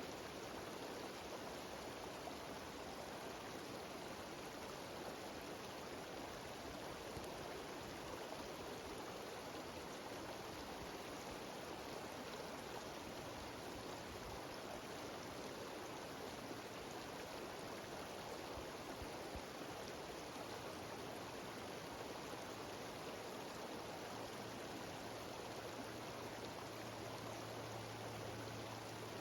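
Mountain stream and small waterfall running over rocks: a steady, even rush of water.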